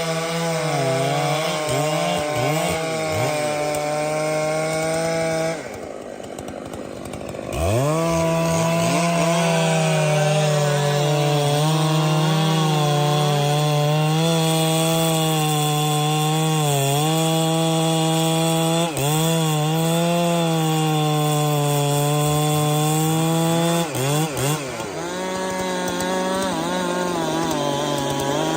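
Chainsaw running at high revs, cutting wood. About six seconds in it drops back toward idle for about two seconds, then revs back up and holds steady, with short dips in revs twice later on.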